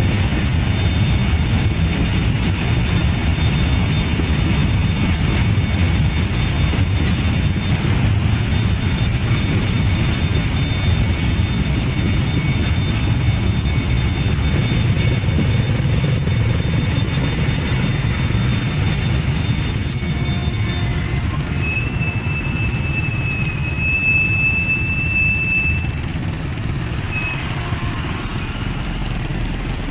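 Freight train of covered goods wagons rolling through a level crossing: a steady low rumble of wheels on rails, with thin high-pitched squeals above it. The rumble eases in the last few seconds as the train clears the crossing.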